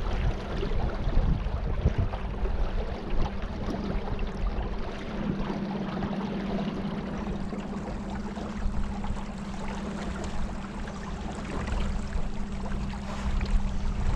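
Small boat's motor running steadily under way, a constant hum, with water rushing past and a low rumble.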